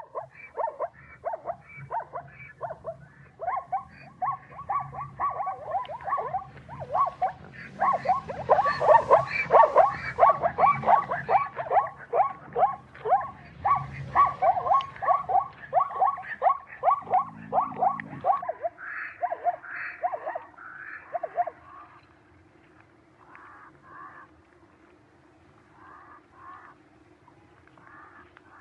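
Zebra calling: a long run of short, high, yelping barks, two or three a second, loudest in the middle and breaking off after about 18 seconds. Fainter, scattered calls follow over a low steady hum.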